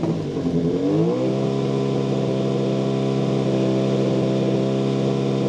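Radical SR3 XXR race car engine dropping back from a throttle blip, then idling steadily from about a second in.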